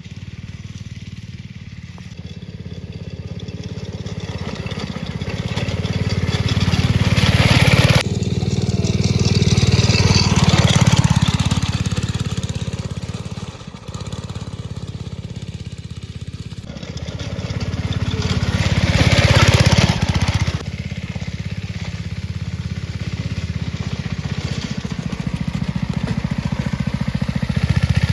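Small go-kart engine running as the kart is driven around, swelling louder about 8 seconds in and again about 20 seconds in, then easing off.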